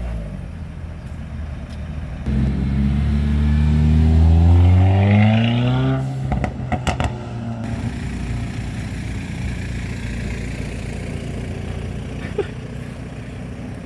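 A car engine accelerating, its note climbing steadily for about four seconds. It cuts off into a quick run of sharp cracks, then settles into a lower, steadier running sound.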